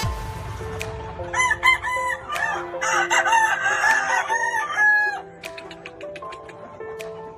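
Gamecock rooster crowing, a long call from about a second in until about five seconds in.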